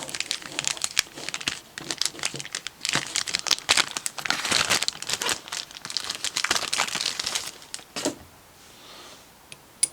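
Packaging wrap being handled and crumpled, crinkling and crackling in a busy run that dies down about eight seconds in, with one sharp click near the end.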